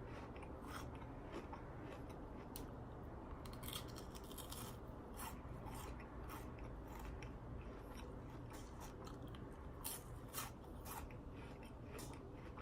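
Someone chewing crunchy chocolate-coated corn snacks, heard as a run of faint, irregular short crunches over a low steady hum.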